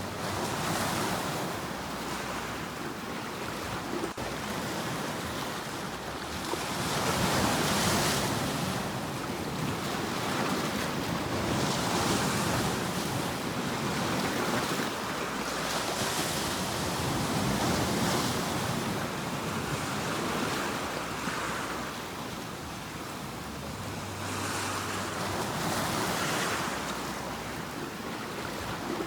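Sea waves breaking and washing on a shore: a steady hiss of surf that swells and fades every few seconds as each wave comes in.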